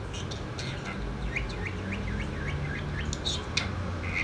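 Small pet parrot chirping: a quick run of short chirps beginning about a second in, then a few sharper, higher tweets near the end.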